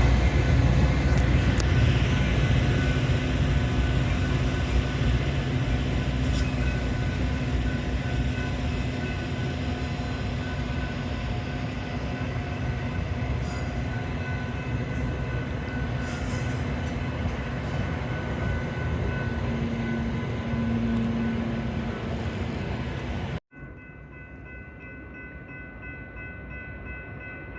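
A Metra commuter train running past on the rails. Its rumble, with a few high steady tones over it, fades gradually as it moves away. About 23 seconds in, the sound cuts off abruptly to a much quieter, steady hum.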